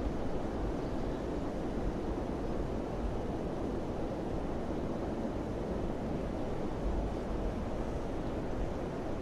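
Wind blowing steadily, a low, deep rushing noise.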